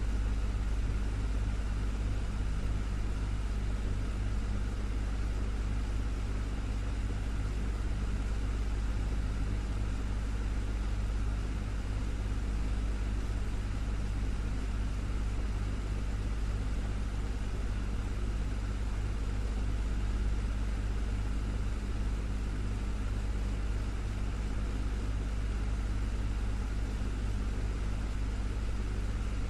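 Desktop fan running steadily: a constant low hum from its motor with an even whoosh of moving air over it.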